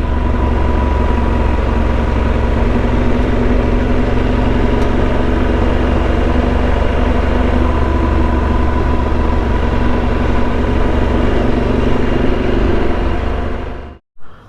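Motorcycle engine running at a steady speed while riding, with wind and road noise. The sound fades and cuts off abruptly near the end.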